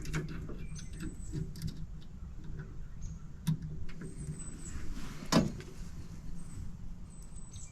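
Light handling clicks and two sharper knocks, about three and a half and five and a half seconds in, over a low steady hum.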